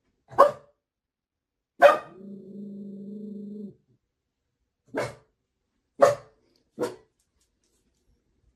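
A dog barking five times in short, sharp single barks spread over several seconds. Right after the second bark a steady, even tone sounds for nearly two seconds.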